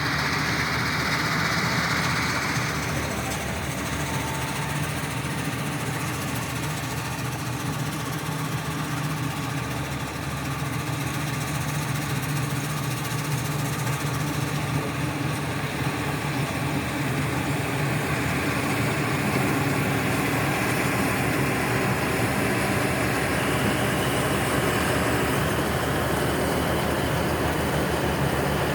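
John Deere 5405 tractor's diesel engine running steadily.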